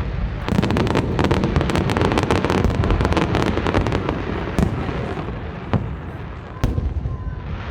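Fireworks display: a dense, rapid crackling of many small pops for a few seconds, then a few single sharp bangs about a second apart, over a low rumble of booms.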